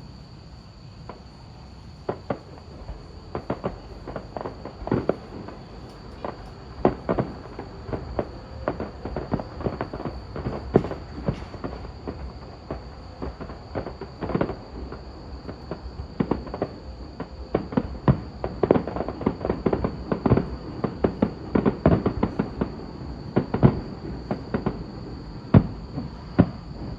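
Fireworks bursting in a long series of sharp bangs over a steady low rumble. The bangs are spaced out at first and come thick and fast through the second half.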